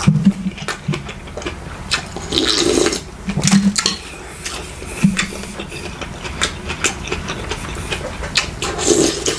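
Close-miked eating sounds: wet mouth clicks and chewing, with a couple of slurps of liquid.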